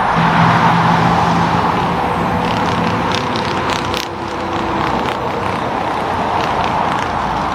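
Road traffic passing: steady tyre and road noise, with a low engine hum through the first three seconds and a few light clicks about three to four seconds in.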